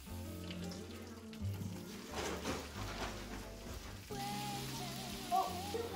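Background music over food sizzling in a frying pan, the sizzle loudest about two to three seconds in.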